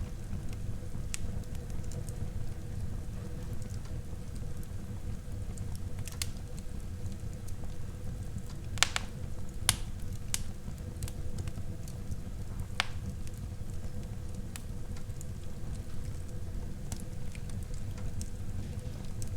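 Wood fire burning in a fireplace: a steady low rumble of flames with scattered sharp crackles and pops, a few louder pops near the middle.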